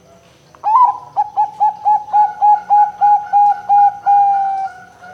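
Zebra dove (perkutut) cooing: a higher opening note, then a quick even series of about a dozen short coos at about four a second, ending in one longer, slightly falling note.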